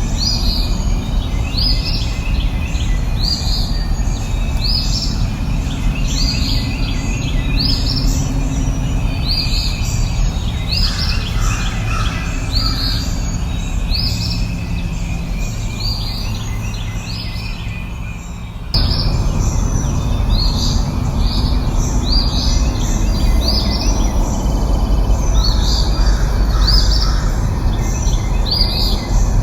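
A bird repeating a short, high chirping call a little more than once a second, over a steady low rushing background. The sound jumps abruptly about two-thirds of the way through.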